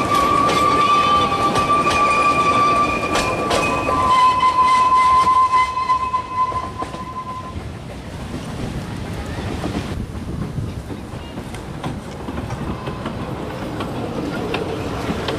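Narrow-gauge passenger carriages rolling past over rail joints, with clicking wheels and a long, steady high-pitched tone that drops slightly in pitch partway through and stops about halfway in. The train then runs on as a quieter rumble as it moves away.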